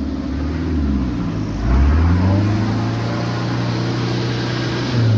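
A vehicle engine running under load. Its revs rise about a second and a half in and hold there, then rise again near the end.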